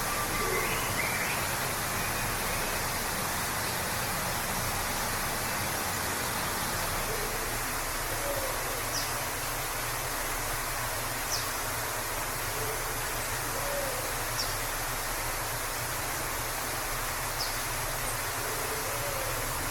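Waterfall rushing steadily, with faint short bird calls now and then over the water noise.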